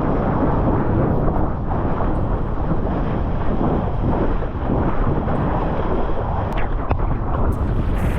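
Steady rushing roar of breaking ocean surf, with wind buffeting the microphone.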